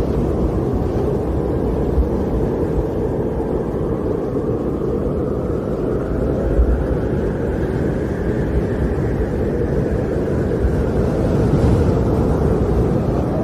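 Snowstorm wind blowing steadily with a deep, noisy rush that swells and eases slowly in gusts.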